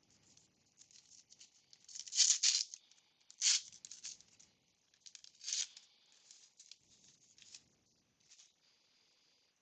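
A baseball card pack wrapper being torn open and crinkled, in a few short rustling bursts about two, three and a half and five and a half seconds in, with faint light handling of the cards between.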